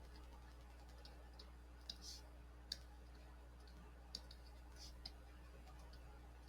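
Near silence over a low steady hum, with about half a dozen faint clicks and two short scratchy sounds scattered through it.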